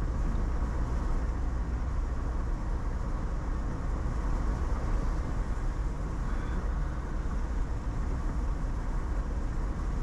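Steady road noise of a car driving along a highway, heard from inside the cabin: an even low rumble of tyres and engine with no change.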